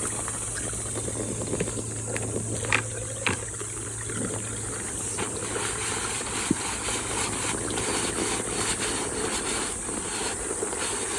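Scrubbing out an emptied pond basin: repeated rubbing strokes, with two sharp knocks about three seconds in.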